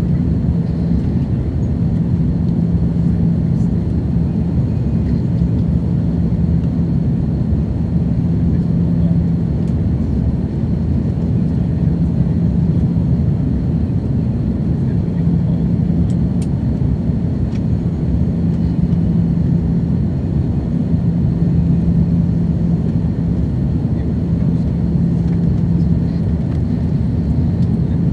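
Steady jet-engine drone and airflow heard inside the cabin of an Airbus A330-200 with General Electric CF6 turbofans. It is a deep, even rumble with a steady low hum running through it.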